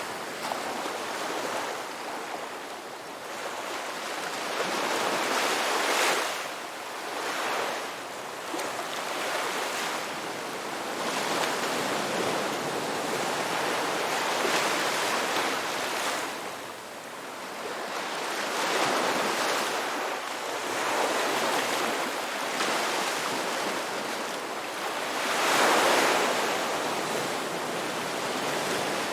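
Ocean waves breaking and washing on a beach, a steady rush of surf that swells and recedes, with the largest breakers about six seconds in and near the end.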